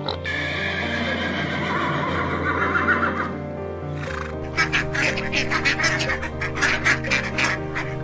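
Background music with animal calls over it. First a horse whinnies, one long wavering cry that falls in pitch. Then, from about halfway, ducks quack in a rapid run of short calls.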